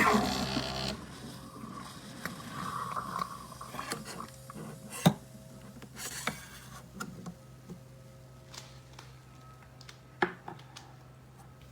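An espresso machine's loud running noise cuts off about a second in, followed by scattered clicks and knocks of parts being handled, with a faint low hum underneath.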